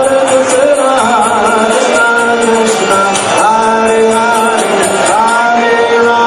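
Devotional temple music with singing voices over long held notes and a regular high-pitched percussion beat, in the manner of a kirtan.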